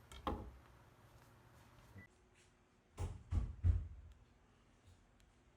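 A few dull knocks and thumps: one just after the start, then three close together about three seconds in, the last the loudest.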